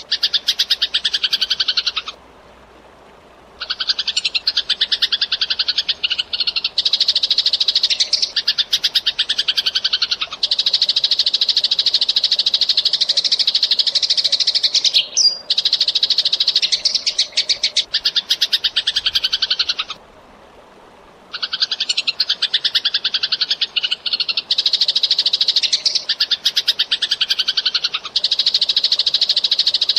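Eurasian tree sparrows chirping in dense, very fast runs of notes, some sliding down in pitch. The chatter is broken twice by a pause of about a second and a half.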